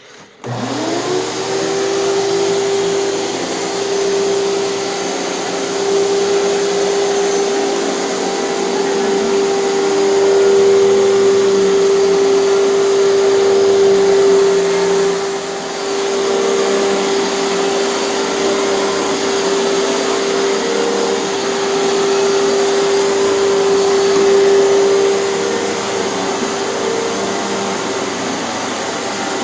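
Hoover canister vacuum cleaner switched on, its motor spinning up over about a second to a steady whine and then running continuously with a slight dip in level about halfway through.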